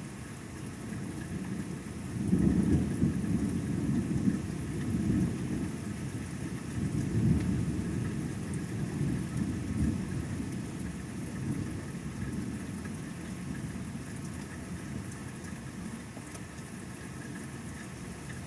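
Thunder rumbling during a thunderstorm: a low rolling rumble that swells about two seconds in, stays strong with several peaks until about ten seconds in, then dies away, over a steady hiss of rain.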